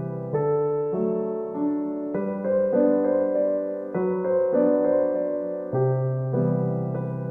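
Background music: a slow, gentle solo piano piece with soft chords and melody notes.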